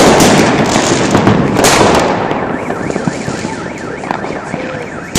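Fireworks going off: a loud burst, then crackling that slowly fades, with another bang just under two seconds in. From about halfway a car alarm sounds, its tone sweeping rapidly up and down.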